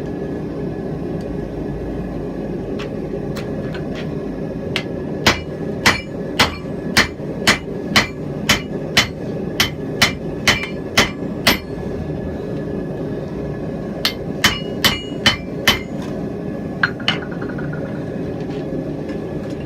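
Blacksmith's hand hammer striking hot steel on an anvil: a few light taps, then a run of about a dozen blows at roughly two a second, a pause, a shorter run of five, and a couple of light taps, some blows leaving a brief ring. A steady low rushing noise runs underneath.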